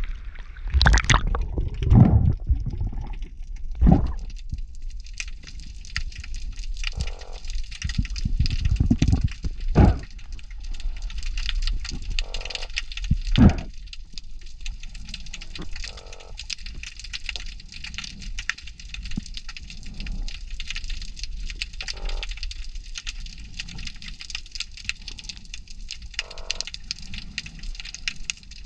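Underwater, short buzzy croaks repeat every few seconds, about six in all, which the diver is almost sure come from a lobster. They sound over a steady crackling hiss, with several loud thumps in the first half.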